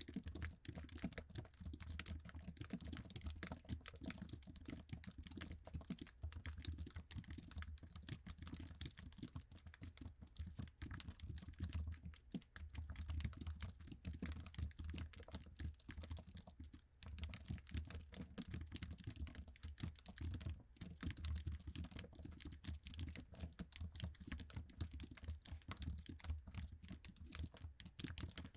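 Continuous fast typing on an iMac's basic Apple keyboard: a dense, unbroken stream of sticky-sounding key clicks, with a brief pause about 17 seconds in.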